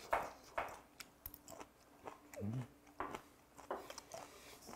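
Close-up chewing of raw goby sashimi: soft, wet mouth sounds with irregular lip smacks, and a short hummed "mm" about halfway through.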